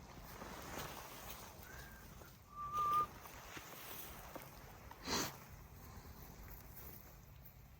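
Two short, high, whine-like calls from a dog, about a second apart; the second is louder and wavers in pitch. A brief rustle or sniff follows a couple of seconds later, with a faint outdoor background.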